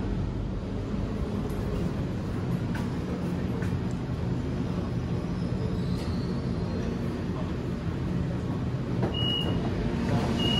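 Electric suburban train carriage slowing to a stop at a platform, heard from inside: a steady low rumble with a faint high whine. About nine seconds in, a short high beep sounds, the door signal as the doors are about to open.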